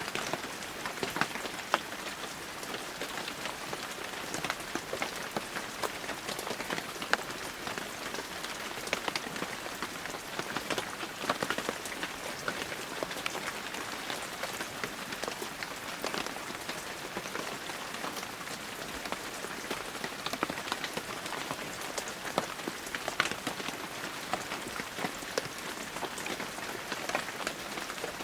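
Heavy rain falling steadily: a dense, even hiss with many separate drops striking close by.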